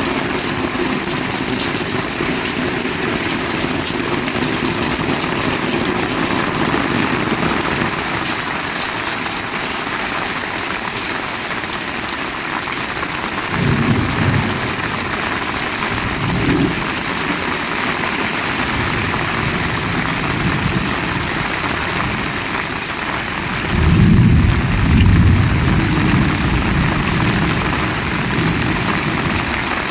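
Heavy rain falling steadily. Low rumbles swell briefly about halfway through and again for a couple of seconds near the end.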